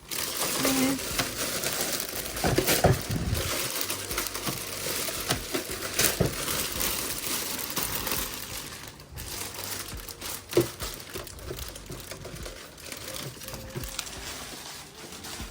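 Plastic packaging crinkling and rustling as it is handled during an unboxing, dense for the first several seconds and then quieter, with one sharp knock about ten seconds in.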